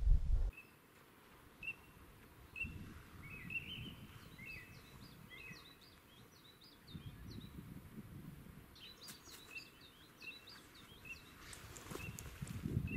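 Birds calling in many short, high chirps and quick whistled notes, over soft low rumbling noise.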